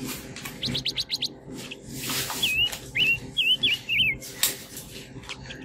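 A small bird chirping: a quick run of short, high, rising chirps, then a few curved whistled notes, with soft rustling and clicks from a sausage's plastic casing being peeled off.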